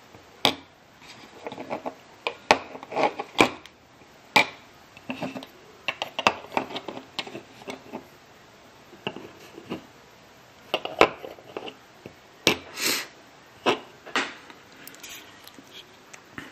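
Small die-cast model airliners being handled and turned over, clicking and knocking against each other and a hard surface in a string of irregular sharp clicks.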